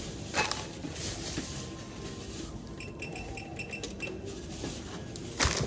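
Groceries being handled at a shop checkout: light clinks and rustling of items and packaging, with a faint electronic tone about three seconds in and a louder short rustle near the end.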